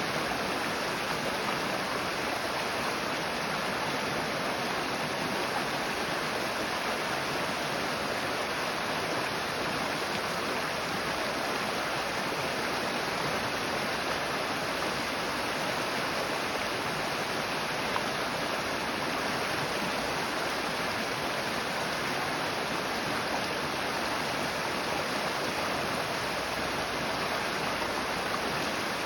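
Creek water rushing and splashing over rocks: a steady, even flow.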